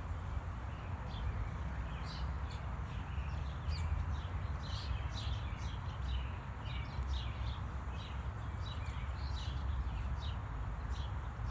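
Small birds chirping, many short high calls coming quickly one after another, over a steady low rumble.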